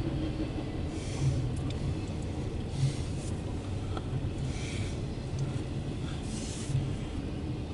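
A long CSX intermodal freight train rolling past on steel rails: a steady rumble of wheels on track, with a brighter clatter of passing wheel sets recurring every couple of seconds.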